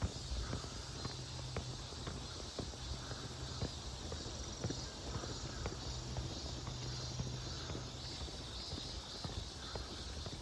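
Footsteps on a paved road, about one step a second, over a steady high chirring of insects.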